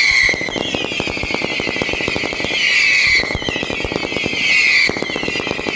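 Fireworks battery firing whistling shots: a run of high whistles, each sliding down in pitch over about a second and a half, one after another, over a dense crackle of bangs and pops from fireworks going off.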